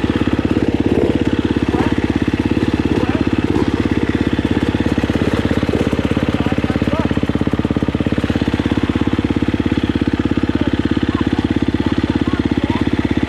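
Dirt bike engine running steadily at low revs, close by, with an even rapid pulsing and no revving.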